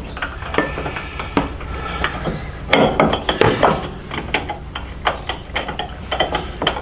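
Irregular metallic clinks and knocks, some with short rings, as hand tools and bolts are handled while a motorcycle crash bar is fitted, over a low steady hum.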